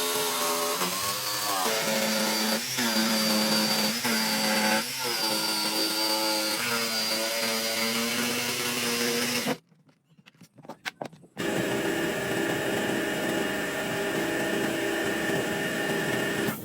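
Electric power tool motor running with a steady whine, its pitch dipping briefly now and then as it bites into the work. It stops abruptly about two-thirds of the way through, leaving a few soft clicks, then a power tool runs steadily again.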